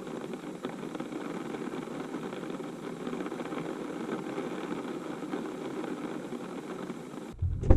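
Steady engine and road noise heard from inside a car. Near the end the sound changes suddenly to a louder, deeper rumble with a sharp knock or two.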